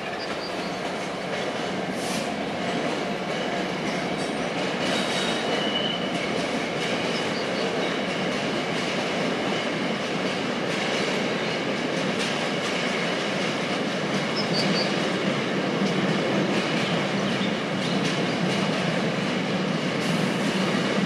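A long rake of empty freight wagons, hauled by a Class 66 diesel locomotive, rolling past at steady speed. The wheels clatter over rail joints, with a few short wheel squeals.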